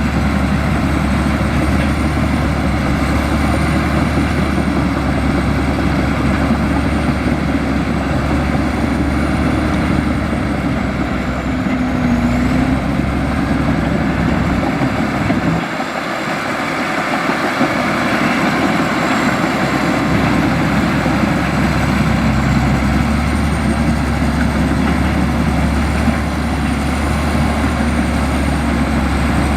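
Komatsu bulldozer's diesel engine running steadily. Its low rumble briefly drops a little past halfway, then comes back.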